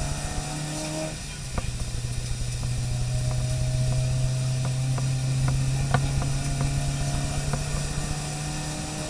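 Car engine heard from inside the cabin while driving on a wet track, running steadily. Its note drops about a second in and then slowly rises again as the car picks up speed, with a few faint clicks over it.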